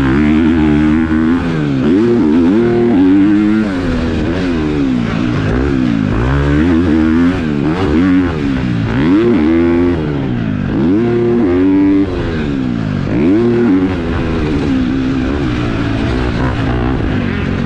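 KTM four-stroke motocross bike with an aftermarket exhaust being ridden hard, the engine revving up and shutting off again and again, about once every one to two seconds.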